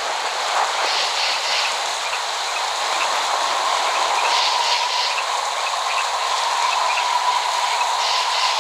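Steady rain, an even hiss with no low rumble, and a faint steady whine running under it.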